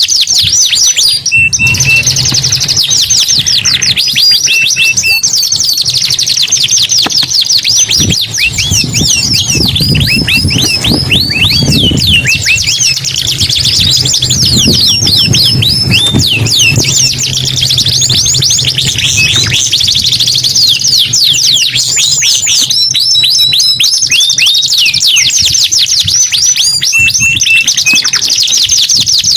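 Domestic canaries singing without pause in loud, rapid rolling trills and chirps.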